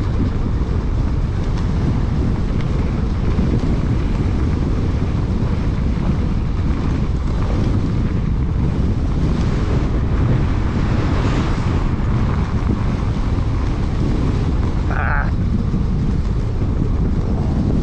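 Steady, loud wind buffeting on a GoPro microphone while riding, a dense low rumble with no engine note. A short higher tone cuts through about fifteen seconds in.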